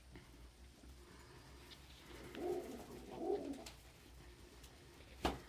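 Domestic pigeon cooing: two low coos about two and three seconds in, then a single sharp click near the end.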